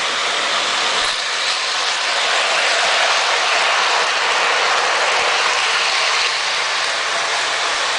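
Electric Polar Express toy train running along its track: a steady whir and rattle of the motor and wheels on the rails.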